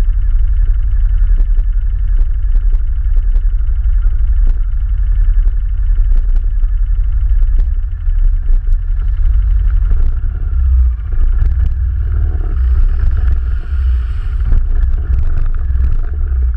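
ATV engine running steadily under a heavy low rumble, with scattered short knocks; the low rumble turns heavier and more uneven about ten seconds in.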